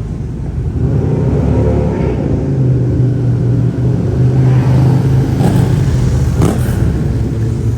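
Car engine running loud with a deep, steady note that swells about a second in and holds, with two short sharp pops near the end.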